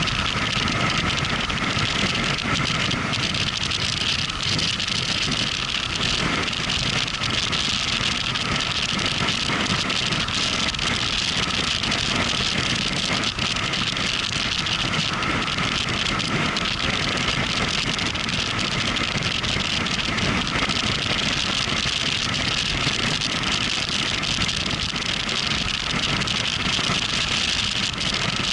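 Motorcycle engine running at a steady pace while riding on the road, mixed with steady wind and road noise.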